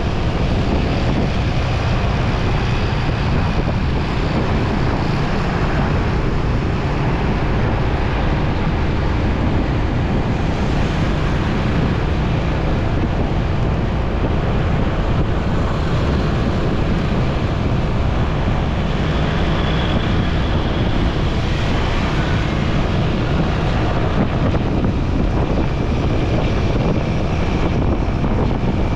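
Steady wind rush on the microphone of a moving motorcycle, over its engine and road noise.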